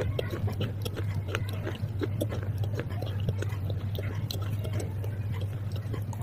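Close-up chewing of crunchy pieces of baked clay pot and slate pencil: a rapid, irregular run of small sharp crunches and clicks, over a steady low hum.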